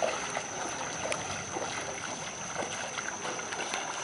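Water moving with small, scattered splashes and drips over a steady wash.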